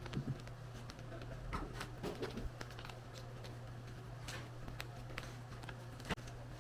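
Scattered light clicks and rustles of objects being handled, over a steady low hum, with a sharper click near the end.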